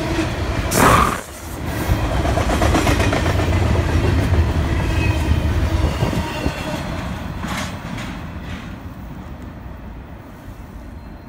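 Freight train of double-stack container well cars rolling past close by, a steady rumble and clatter of steel wheels on the rail, with a brief loud burst about a second in. The sound fades away over the last few seconds as the end of the train passes and moves off.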